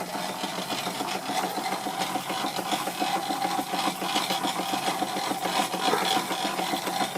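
Stuart Victorian model steam mill engine running steadily and driving a Wilesco model fairground, with a fast, even mechanical chatter from the right-angle drive gear, which the owner calls very noisy, over the hiss of steam from the boiler's safety valves.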